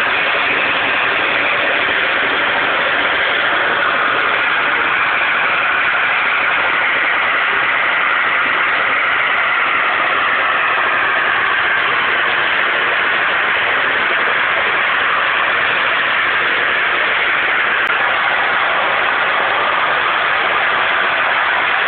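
Natural gas jetting from an uncontrolled well in an open gas blowout, a steady rushing hiss that doesn't change.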